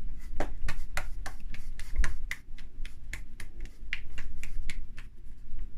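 Hands clapping, a quick, uneven run of sharp claps at about four or five a second.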